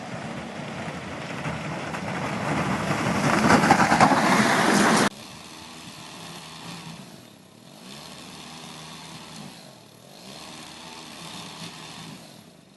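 A motor vehicle on a snowy street, its noise growing louder and then cutting off suddenly about five seconds in. Quieter steady street ambience follows.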